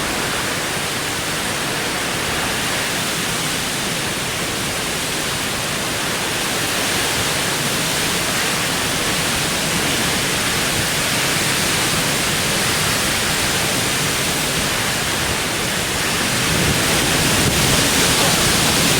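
Heavy rain and wind of a violent rainstorm: a dense, steady rush of pouring rain, growing a little louder about sixteen seconds in.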